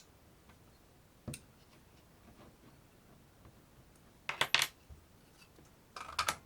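Small hard objects clinking and rattling as they are handled: one knock, then two short bursts of clicks and clinks, about four and six seconds in.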